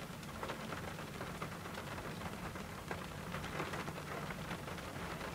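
Steady rain falling during a thunderstorm, with many separate drop ticks throughout.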